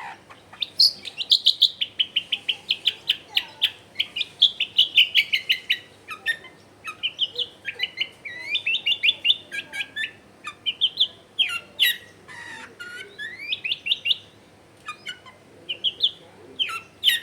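Long-tailed shrike singing a busy, varied song of rapid sharp repeated notes, trills and short rising and falling glides, with brief pauses between phrases.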